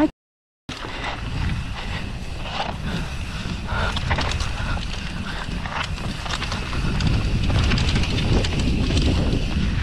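Wind rushing over the microphone while a mountain bike descends a rough trail at speed, with the bike's frame and parts rattling and knocking over bumps.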